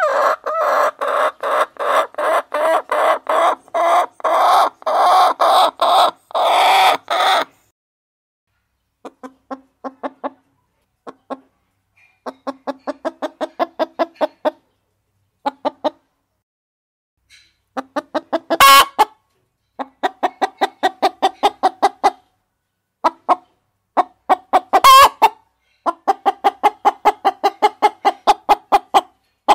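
Hens clucking in rapid series of short, evenly spaced clucks, several a second. A long run comes first, then shorter runs with brief pauses between them. Two sharp clicks stand out in the second half, about six seconds apart.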